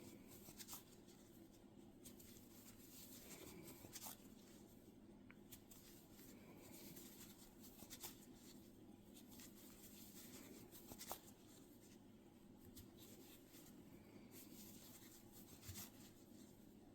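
Near silence: faint rustling and scratching of yarn being worked with a crochet hook, with a few soft scattered clicks over a low steady room hum.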